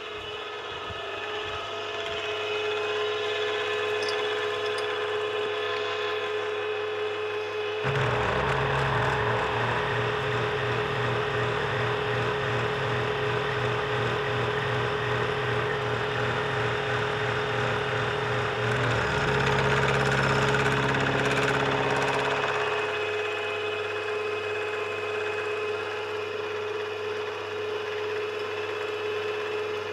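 SGS-612 benchtop surface grinder running with a steady hum. About eight seconds in a louder, rougher sound with a fast low pulse joins the hum, then stops about fifteen seconds later.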